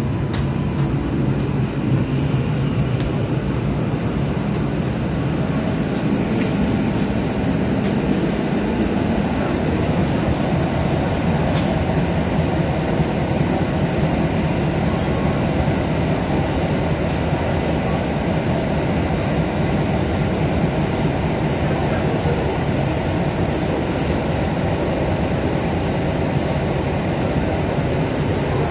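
Inside the passenger saloon of an EN57AKM electric multiple unit running along the line: a steady rumble of wheels on rail, with a few faint clicks.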